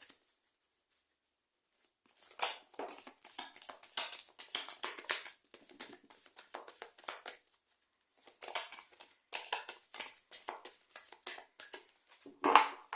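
A deck of oracle cards shuffled by hand: quick papery flicks and slaps in two runs with a short pause between, and one louder slap near the end.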